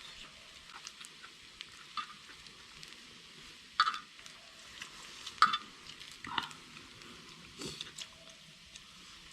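Pork belly sizzling on a cast-iron cauldron-lid griddle, with a few sharp clicks over it, the loudest about four and five and a half seconds in.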